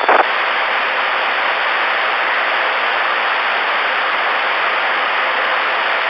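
Steady static hiss from the Stryker SR-447HPC ten-meter radio's speaker with no station transmitting: the receiver passing band noise between transmissions. A short burst sounds right at the start as the last transmission ends.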